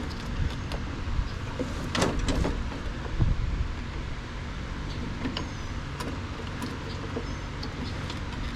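Scattered light clicks and knocks of hands and tools working a drive belt onto a snowblower's pulleys, over a steady low hum.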